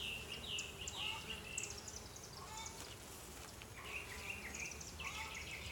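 Birds chirping in short repeated calls over a steady low hum, the buzzing of honeybees at an open hive.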